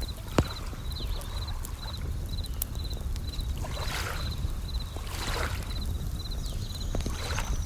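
Bell crickets chirping in short high trills about twice a second over waves washing in three times. A single sharp campfire crackle sounds just after the start, with a low steady rumble underneath throughout.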